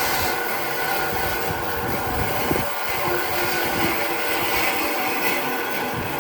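A power tool running steadily on wood: a continuous grinding noise with a faint steady whine.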